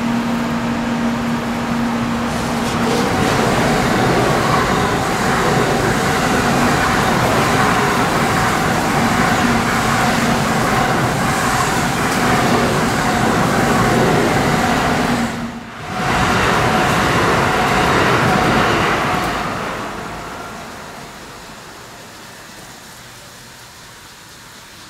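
An N700-series Shinkansen train passing close along the platform: a loud, steady running noise of wheels and air with a faint steady hum through it. The noise dies away over a few seconds near the end, leaving a low hiss.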